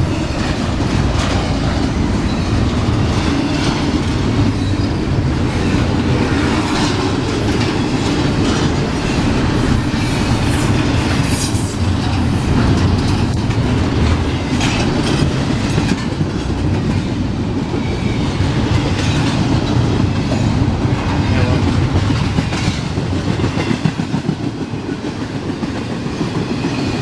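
Freight train rolling past at close range: a loud, steady rumble of railcars, with wheels clicking over the rail joints.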